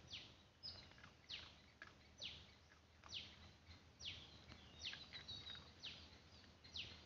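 Faint bird chirps: about ten short calls, each falling quickly in pitch, repeated every half second to a second.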